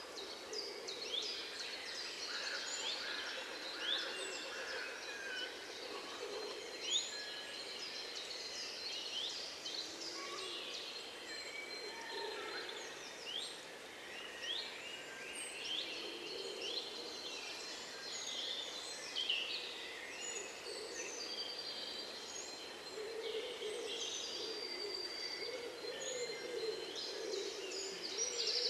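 A chorus of many songbirds chirping and singing at once: quick, high, sweeping notes overlapping continuously, with a lower warbling call underneath that grows stronger in the second half.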